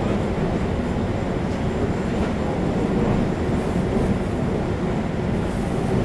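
Running sound of a Taiwan Railway EMU700 electric multiple unit at speed, heard from inside the passenger car: a steady low rumble of wheels on rail and traction equipment.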